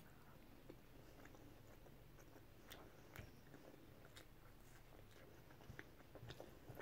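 Faint chewing and mouth sounds of a person eating a mouthful of paella and bread, with soft scattered clicks, a few more of them near the end.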